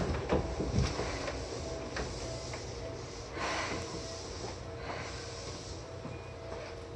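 Inside a Seibu 2000 series train car: a steady hum of equipment, a few clunks and rattles in the first second, and short hisses of air about halfway through.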